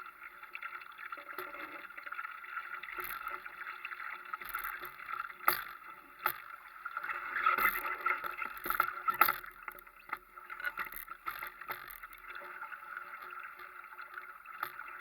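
Water rushing and splashing along a Europe sailing dinghy's hull under sail, louder for a few seconds in the middle, with several sharp knocks.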